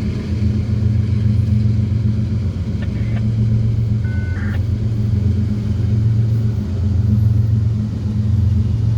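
CSX freight train's diesel locomotives running, a loud steady low drone.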